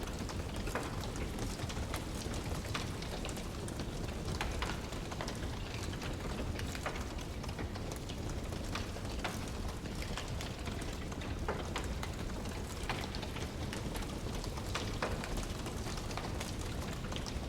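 Wood fire crackling: irregular sharp pops and snaps from burning logs over a steady low rushing noise.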